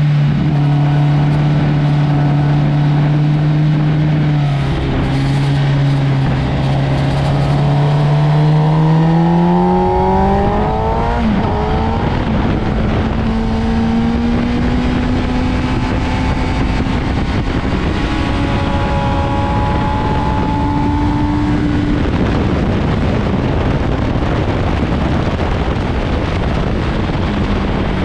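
Sport motorcycle engine on a race track, holding a steady note, then revving up about nine seconds in and shifting up. It climbs slowly for about ten seconds before the throttle closes. Near the end the engine note drops under a rush of wind noise, then returns.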